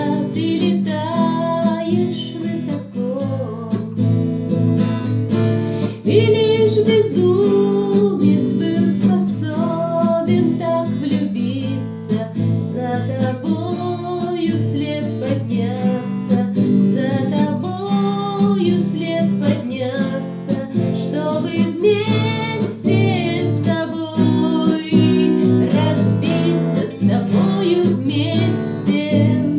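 Music: an acoustic guitar strumming chords steadily, with a wavering melody line above it.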